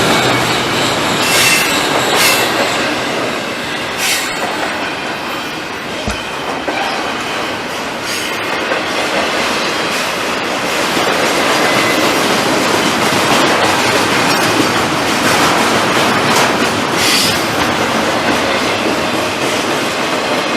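Long freight train rolling slowly past: steady noise of the cars on the rails, with a few sharp clicks.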